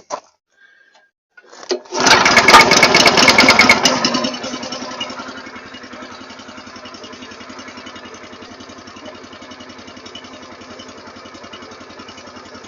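Log splitter's small gasoline engine starting about two seconds in, running loud for about two seconds, then settling to a steady idle.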